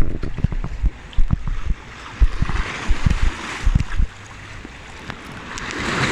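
Sea waves washing in, swelling twice. Wind buffets the microphone in irregular low thumps through the first few seconds.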